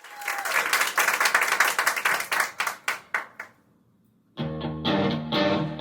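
Audience applause fading away, a moment of near silence, then a band with guitar starts playing about four and a half seconds in.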